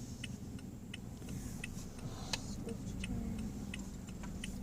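A car's turn-signal relay ticking steadily, roughly three clicks a second, over a low engine and road rumble.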